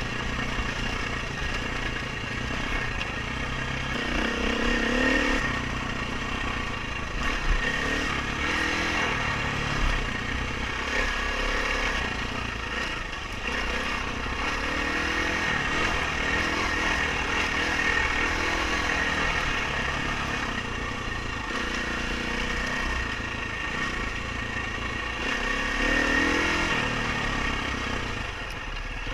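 Dirt bike engine running hard, its pitch rising and falling with the throttle, with louder revs about five seconds in and again near the end.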